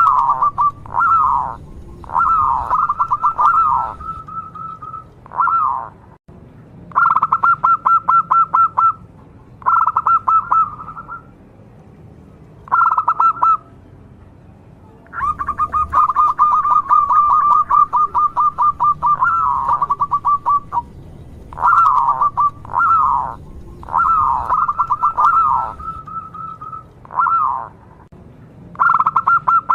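Zebra dove (perkutut) calling: short phrases of fast, rattling coos with quick rising and falling glides, repeated every second or two, with a pause of about two seconds near the middle.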